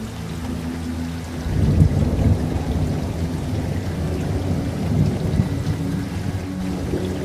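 Steady rain with a low rumble of thunder that swells about one and a half seconds in and rolls on, swelling again about five seconds in.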